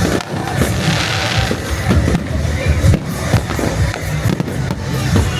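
Fireworks going off in quick succession, sharp bangs and low booms with a brief hiss about a second in, over music.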